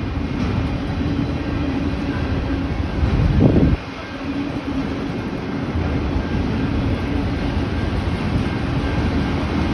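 Freight train of autorack cars rolling past: a steady rumble of wheels on rail with a low hum. A brief louder swell about three seconds in, then a short dip.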